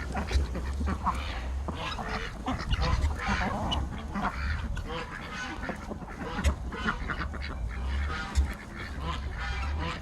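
Domestic geese honking repeatedly in short calls among other poultry, over a low rumble.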